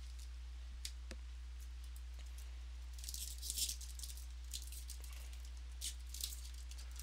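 Trading-card packs and cards being handled: a few light clicks, then bursts of crinkling and rustling from about three seconds in, over a steady low electrical hum.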